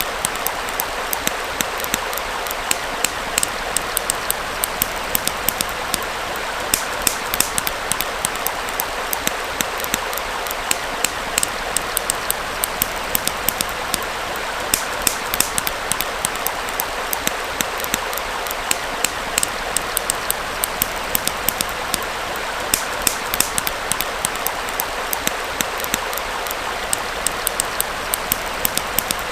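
Small stream flowing steadily, with a campfire crackling over it in irregular sharp pops and snaps.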